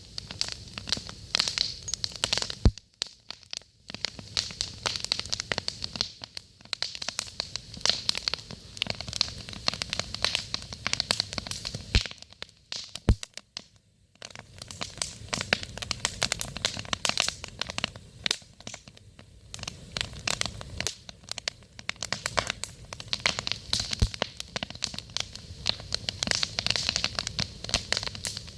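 Campfire crackling: burning wood snapping in a dense, irregular stream of small clicks, with a few louder sharp pops. The crackling dips briefly about three seconds in and again about halfway through.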